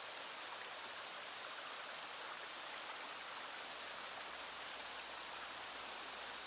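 Small stream running steadily, a continuous even rush of water mixed with falling rain.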